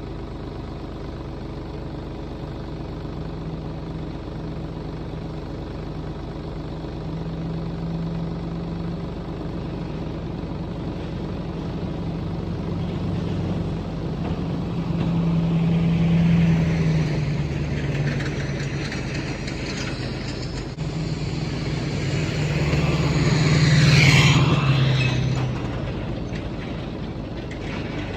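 A vehicle engine running with a steady low hum that shifts in pitch. It swells louder twice, about halfway through and again near the end, where a rush of noise builds and then fades.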